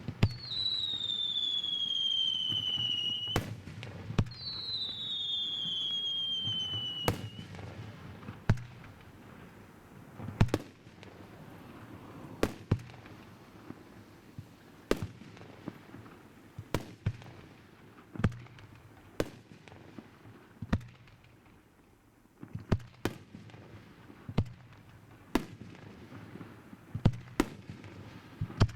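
Aerial fireworks: two long whistles falling in pitch, each about three seconds, then a string of sharp bangs from shells bursting, one every second or two.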